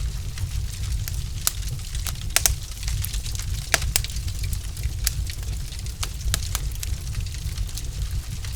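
Wood fire burning in a fireplace: a steady low rumble of flame with irregular sharp crackles and pops from the logs, the loudest pops about two and a half and four seconds in.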